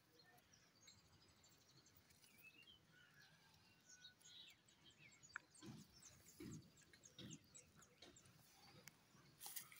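Near silence, with faint bird chirps and a short whistled note in the first few seconds, then scattered soft clicks and a few soft low handling sounds.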